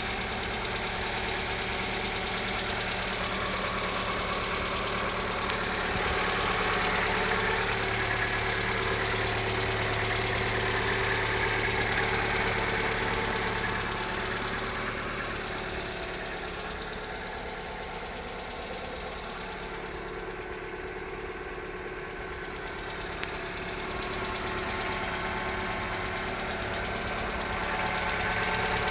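Lada Largus's VAZ-21129 1.6-litre 16-valve four-cylinder engine idling soon after a morning cold start, with a rapid knocking mixed into its running; it grows somewhat fainter for a while in the middle. The knock was later traced to a factory defect in the cylinder head.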